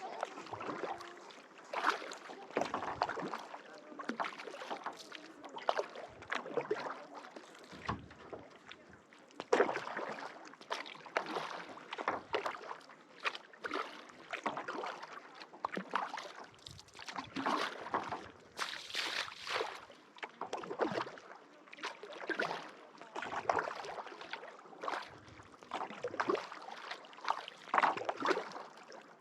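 Kayak paddle strokes: the blades dip and splash into calm lake water in a steady rhythm of about one stroke every second and a half, with water dripping and lapping between strokes.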